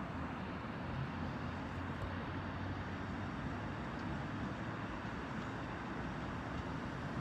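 Steady low rumble of a train at the station, even throughout with no horn or sudden noises.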